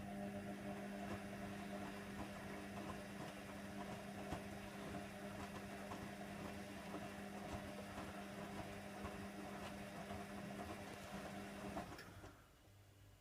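Hoover Nextra HNWL7146 washer dryer running mid-cycle with a steady mechanical hum, then stopping about twelve seconds in.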